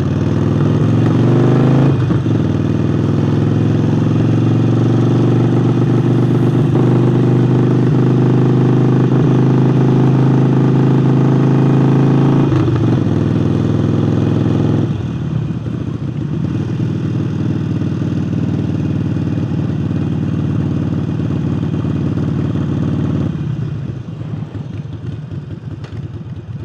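Harley-Davidson Forty-Eight's air-cooled V-twin running under way, breathing through a new aftermarket air intake. It holds a steady pitch for the first half, then eases off about midway and drops lower again near the end as the bike slows.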